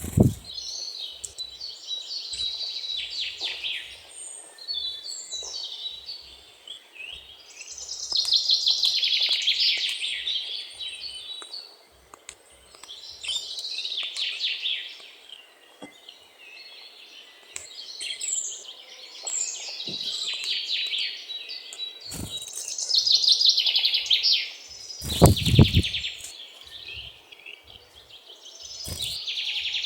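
Great tit singing and calling in repeated bursts of high, rapid chattering phrases every few seconds. A low thump about 25 seconds in is the loudest moment.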